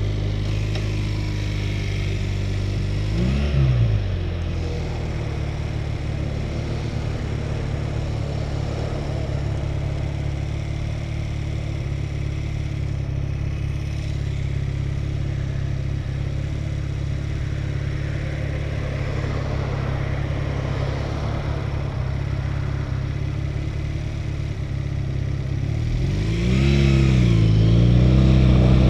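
Honda Rebel motorcycle engine running steadily at freeway speed under a constant rush of wind and road noise. About three seconds in its pitch briefly rises and falls, and near the end it gets louder, its pitch climbing and wavering as the rider opens the throttle.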